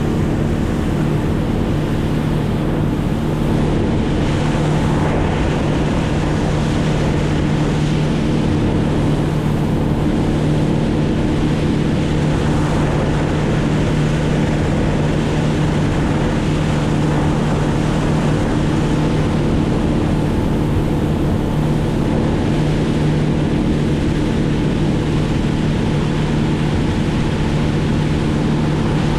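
A motorboat engine drones steadily at a constant speed, over a rush of wind and water.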